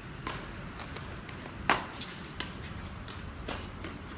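Badminton rackets striking a shuttlecock in a rally: four or so sharp hits about a second apart, the loudest a little before the middle, over a steady low hall background.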